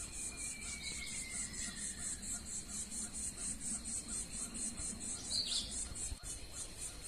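Insects chirping in an even pulsing rhythm, about four or five high chirps a second, with a single short bird chirp about five seconds in.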